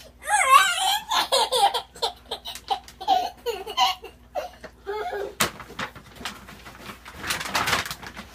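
A young child laughing and squealing in bursts of high, wavering, excited laughter, with a sharp click about five and a half seconds in and a breathy burst near the end.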